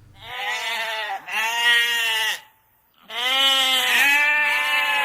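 Sheep bleating three times. The first two bleats last about a second each, and the third is longer and wavering, running on past the end.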